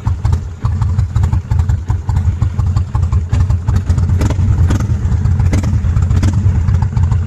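Kawasaki VN 1500 V-twin engine running steadily through a Silvertail aftermarket exhaust, a loud, even pulsing beat.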